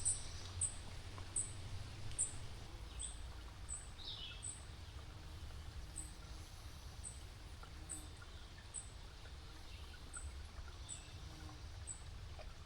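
A bird repeating short, high, thin downward-slurred notes, about one or two a second, with one lower descending call about four seconds in, over a faint low outdoor rumble.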